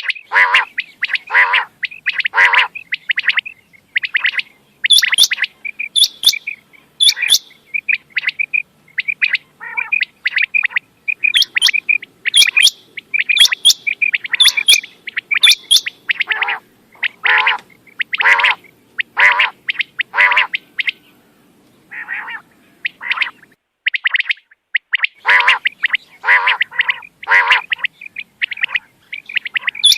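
Quail calling: short, sharp notes repeated in quick runs, with a thinner stretch about three-quarters of the way through.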